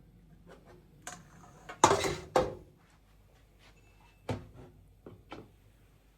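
Several knocks and clunks of objects being handled: two loud ones about two seconds in, then a few lighter ones.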